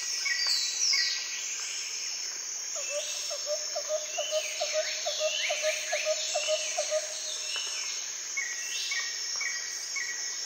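Birds and insects calling outdoors: a steady high insect drone under repeated falling bird whistles. A run of short low notes, about three a second, comes from about three to seven seconds in, and a string of short high chirps, about two a second, comes near the end.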